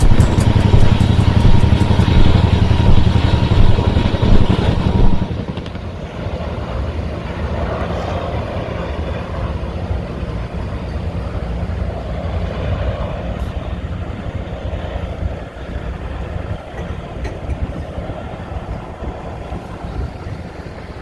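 Helicopter running nearby, its rotor making a fast pulsing rumble and its turbine a steady whine. About five seconds in it drops suddenly, leaving a quieter, steady rushing noise.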